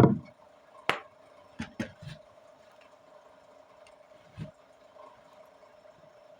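Chunks of multani mitti (Fuller's earth) crunching and snapping: a loud crunch at the start, a few sharper cracks over the next two seconds, and one more about four and a half seconds in.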